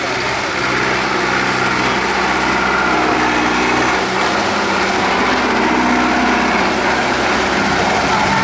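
Tractor engine running steadily, its pitch rising and falling a little.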